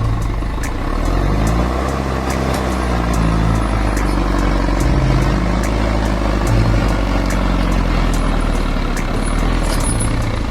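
LKT 81 skidder's diesel engine running under load, its pitch stepping up and down several times as the machine works down a steep slope with logs in tow. Faint sharp ticks are scattered throughout.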